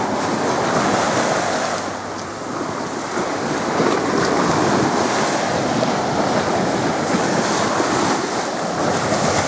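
Sea waves breaking heavily onto a beach, a continuous wash of surf with wind buffeting the microphone. It eases a little about two seconds in, then builds again.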